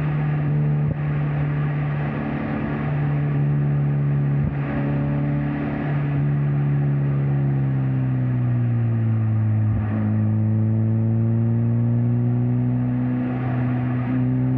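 Mazda MX-5 Miata NC's four-cylinder engine and exhaust under steady driving, its pitch easing down about eight to ten seconds in and then holding lower, with road and wind noise underneath.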